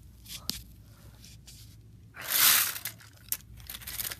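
A few faint clicks, then a short, loud rustling scrape about two seconds in: handling noise as the model or the recording device is moved about.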